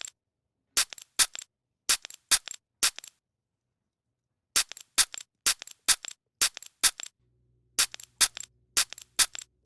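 Sharp plastic clicks, about two a second in short runs with a pause of a second or so midway, from a toy perfume bottle's pump being pressed repeatedly.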